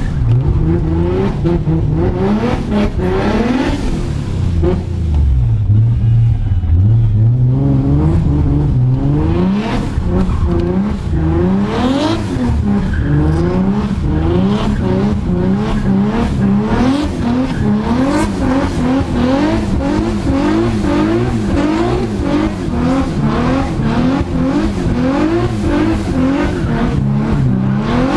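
Modified Nissan car engine revved hard again and again, its pitch sweeping up and falling back about once a second. It runs lower and heavier for a few seconds early on, then the blips come quicker.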